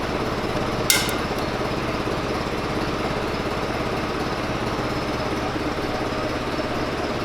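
A lifting machine's engine, likely a forklift's, idling steadily with an even pulse while it holds the engine being pulled, with one sharp metallic clank about a second in.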